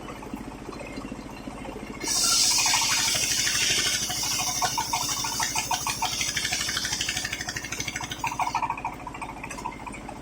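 Circular sawmill blade cutting waru wood into battens over the steady hum of the machine's motor. A loud, high cutting noise starts about two seconds in and stops about six seconds later, leaving the motor running.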